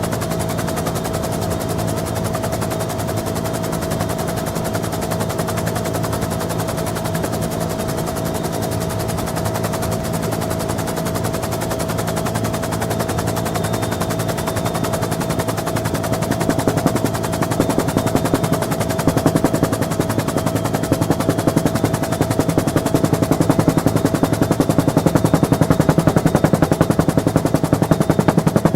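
Bell UH-1N Twin Huey helicopter heard from on board with the doors open: its twin turboshaft engines run with a steady whine under a rapid rotor-blade chop. The chop grows louder about halfway through.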